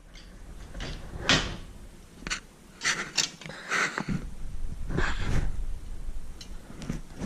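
A handful of scattered knocks and clicks from handling tools or parts on a workbench. A low rumble comes in about halfway through.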